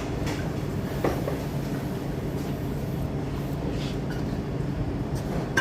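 Steady low mechanical hum with a few faint clicks and knocks over it.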